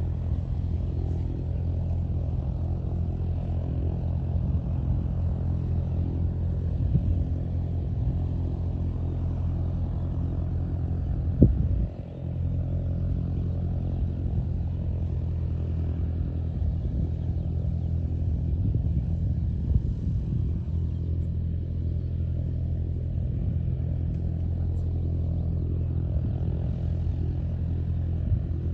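An engine running with a steady low drone. There is a single knock about eleven and a half seconds in, and a brief dip in level just after.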